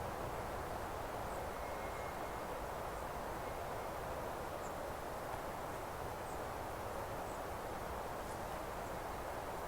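Steady rushing outdoor ambience of a meadow, with a few faint, brief high chirps from small birds scattered through it.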